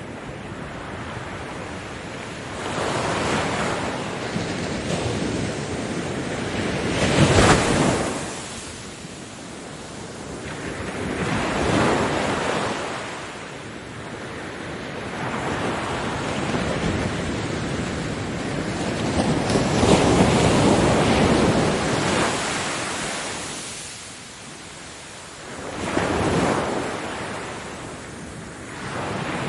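Ocean waves breaking on a beach, each surge of surf swelling and washing back every few seconds, with the strongest breaks about a third of the way in and near the end.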